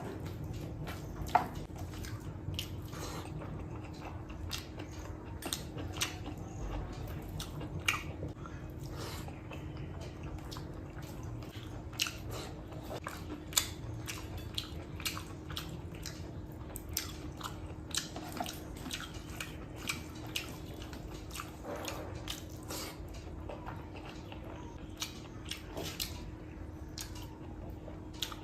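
Close-up eating sounds of chicken curry with rice: wet chewing and mouth smacks as irregular short clicks, over a faint steady hum.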